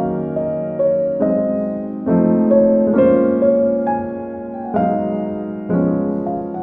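Slow, gentle piano music: soft chords struck about once a second, each ringing and fading before the next, with a simple melody above.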